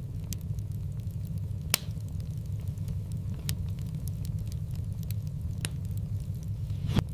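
Wood fire in a fireplace crackling over a steady low rumble, with scattered sharp pops, the loudest just under two seconds in and another near the end.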